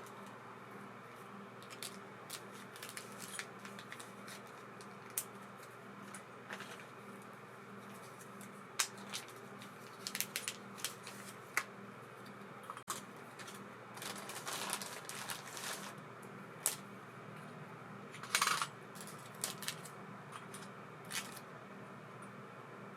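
Small metal parts of an Abu Garcia Ambassadeur 2500C baitcasting reel clicking and clinking irregularly as they are handled and worked on, with a faint steady hum underneath.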